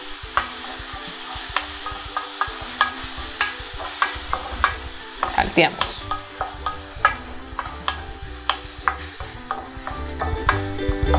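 Chopped onion sizzling in hot oil in a wok-style pan while a wooden spoon stirs it, with many sharp clicks and scrapes of the spoon against the pan and one louder scrape a little past halfway.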